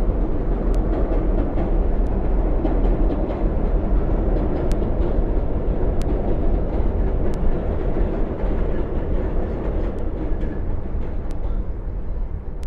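Subway train running across the steel Williamsburg Bridge: a steady heavy rumble with occasional faint clicks from the wheels and track, easing off slightly near the end.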